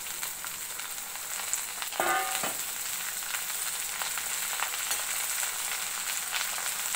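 Chopped okra frying in hot mustard oil in a steel kadhai, a steady sizzle, while a steel ladle stirs it with small clicks and scrapes against the pan. There is a brief louder scrape about two seconds in.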